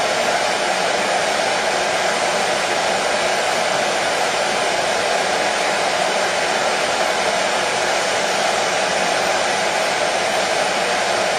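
Hair dryer running steadily: an even rush of blown-air noise with no change in level or pitch.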